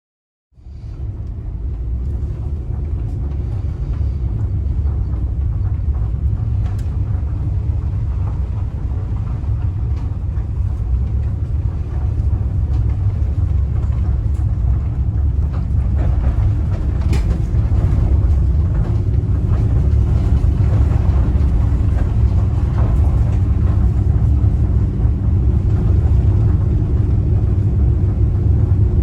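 Steady low road-and-engine rumble of a Ram ProMaster van on the move, heard from the cabin, starting suddenly at a cut and growing slightly louder.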